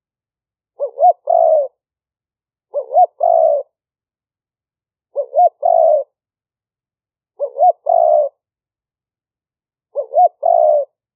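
Spotted dove cooing: a phrase of two short notes and a longer one, repeated five times about two seconds apart. It is the call of a tame decoy male used to lure wild doves, recorded clean with the background noise removed.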